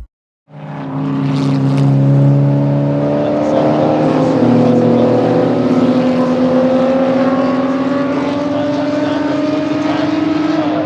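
Race car engines running hard on track, starting about half a second in. Their steady note climbs slowly in pitch, with a shift about four seconds in.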